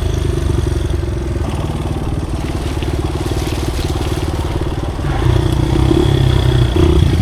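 Small motorcycle engine running, easing off in the middle and picking up again about five seconds in.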